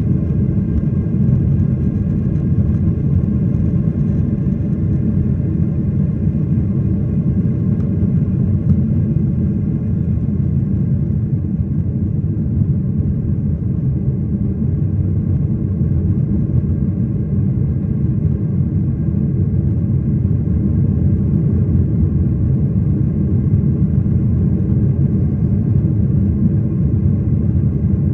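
Steady low rumble of airliner cabin noise: jet engines and airflow heard from inside the passenger cabin.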